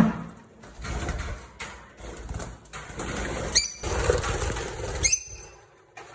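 Lovebirds in an aviary: two short, sharp high chirps about three and a half and five seconds in, over bursts of rustling, flapping-like noise.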